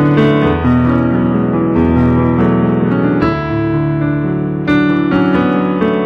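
Keyboard music: slow, held chords that change every second or so, with a freshly struck chord near the end.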